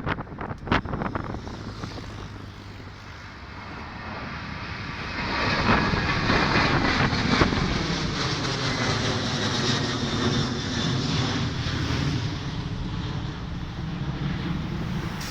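Airplane engines growing louder from about four seconds in as the aircraft passes close, then a steady loud engine noise with sweeping tones that slowly fall in pitch. A few knocks of wind on the microphone in the first second.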